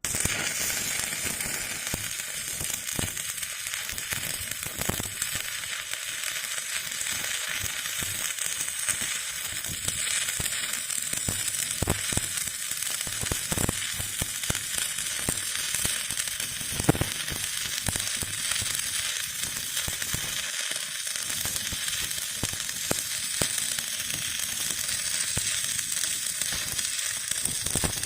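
Stick (shielded metal arc) welding arc crackling steadily, with scattered sharp pops. It starts abruptly as the arc is struck.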